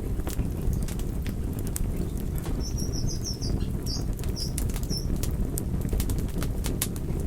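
Wood fire crackling: irregular sharp pops and snaps over a steady low rumble. A short run of high chirps comes in about three seconds in and stops about two seconds later.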